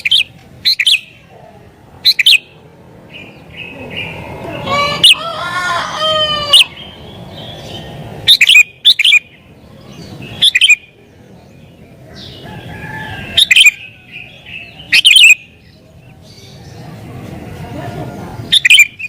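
Sooty-headed bulbul (kutilang) calling in an excited, aggressive mood: loud, sharp chirps in short clusters every second or two, with a longer phrase of several tones about five to six seconds in.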